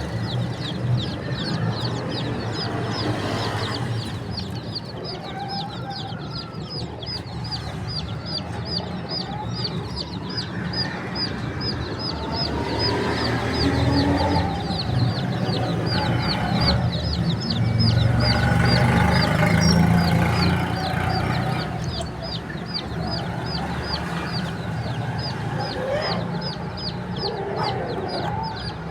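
Many baby chicks peeping without pause: a rapid stream of short, high, falling peeps, with lower calls mixed in over a steady low rumble. The rumble and lower calls grow louder about halfway through.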